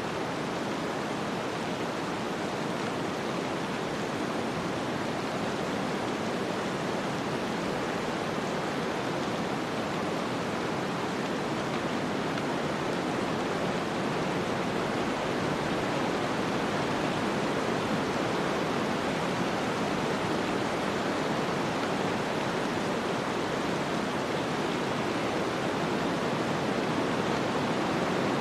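Snowstorm ambience: a steady, even hiss with no distinct events, growing slightly louder toward the end.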